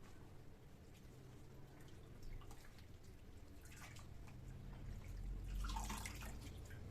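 Faint water sounds in a kitchen: dripping and small splashes, growing into a short louder trickle a little past halfway.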